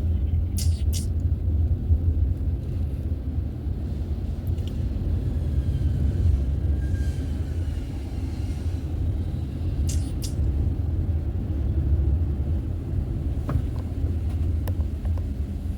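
Steady low rumble of a car driving on the road, with a few short sharp clicks near the start and again around ten seconds in.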